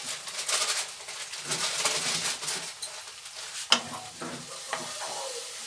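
Spiced onion-tomato masala sizzling in a nonstick kadai while a wooden spatula stirs and scrapes it, with one sharp knock a little past the middle.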